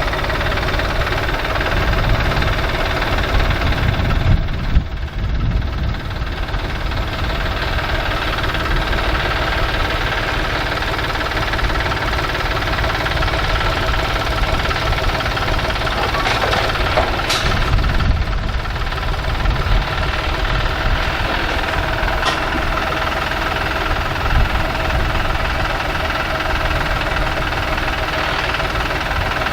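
Tractor engine running steadily, with a few brief sharp sounds over it partway through.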